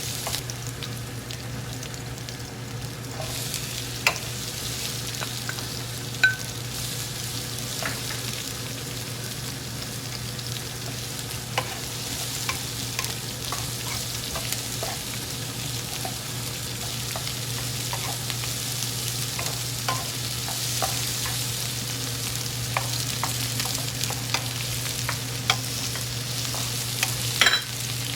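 Food sizzling as it fries in a pan, stirred with a utensil that clicks and scrapes against the pan now and then, over a steady low hum.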